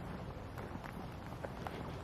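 Footsteps on a woodland trail: small irregular crackles and ticks over a low steady rumble.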